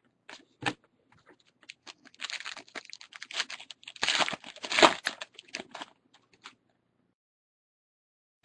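Trading card packs and cards being handled, with the foil wrapper crinkling and cards rustling and clicking against each other. The handling sounds come in a burst of a few seconds, loudest just before the end of it.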